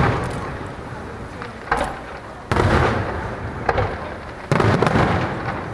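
Fireworks shells bursting in a show: three loud booms about two seconds apart, each trailing off into a long rumble, with a sharper, smaller crack between each pair.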